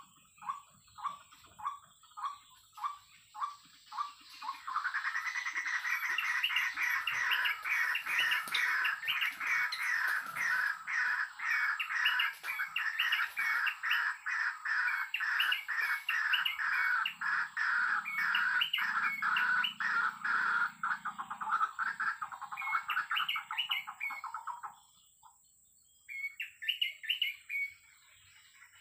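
White-breasted waterhen calling: a slow series of single notes about two a second, then from about four seconds in a loud, rapid run of harsh, repeated calls lasting some twenty seconds that stops abruptly, with a shorter burst near the end.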